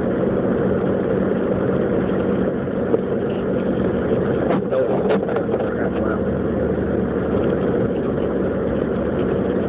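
Steady in-cabin road and engine noise of a Jeep Grand Cherokee 4x4 driving on a snow-covered road, with a few faint clicks about halfway through.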